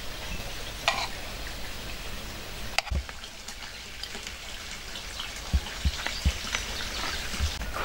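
Food sizzling as it fries, a steady hiss with scattered clicks and a few soft low knocks in the second half.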